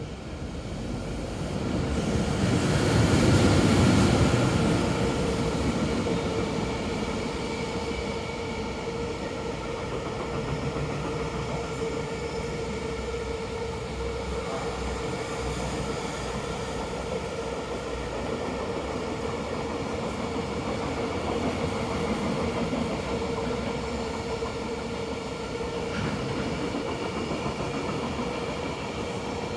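Freight train hauled by an EH500 electric locomotive passing through: the sound swells to its loudest about three to four seconds in, then a long string of container wagons rumbles steadily past on the rails, with a steady hum running underneath.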